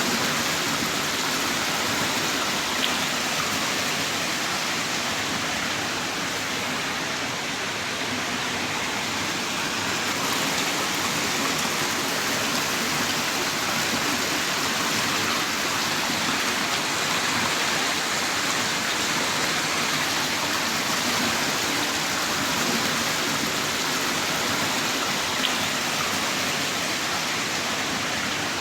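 Heavy rain pouring down in a steady, dense hiss, with no let-up, and a couple of faint drip ticks.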